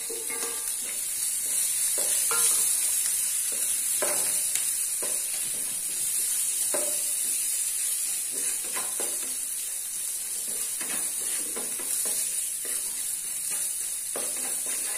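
Chopped green chillies, ginger and garlic sizzling in hot oil in a frying pan, with a steady hiss. A wooden spatula stirs them, giving short irregular scrapes against the pan.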